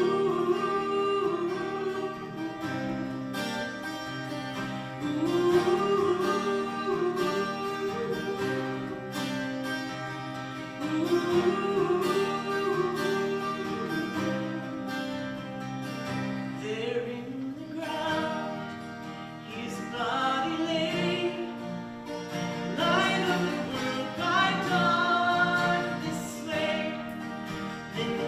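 Slow worship music led by guitar, with a melody line above it in phrases of a few seconds that grows fuller after about twenty seconds.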